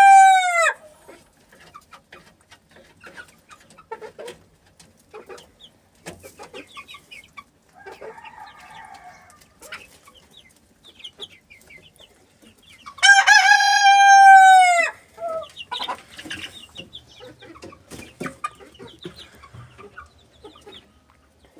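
A three-month-old cockerel crowing. The end of one crow trails off just after the start, a softer, shorter call comes around 8 seconds in, and a full crow of about two seconds comes around 13 seconds in, with faint scattered small sounds between.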